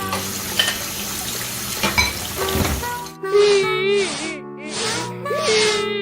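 A steady sizzling hiss, with a few sharp clicks, for about three seconds. It gives way to background music with a warbling melody.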